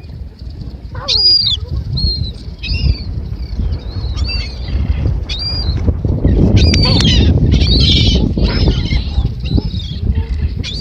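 A flock of birds calling, many short high calls that arch or fall in pitch, over a low rumbling noise that grows louder in the second half.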